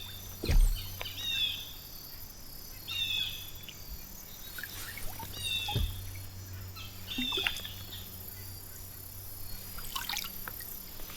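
A bird repeating a short high call about every two seconds, five times, over a faint steady hum. A low thump about half a second in and a sharp knock near six seconds.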